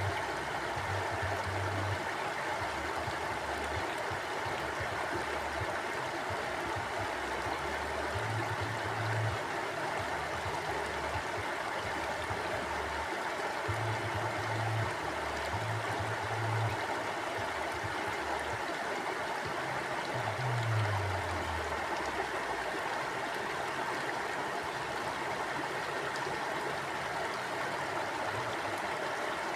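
Stream water flowing steadily. A faint low rumble comes and goes several times beneath it, falling in pitch once about two-thirds of the way through.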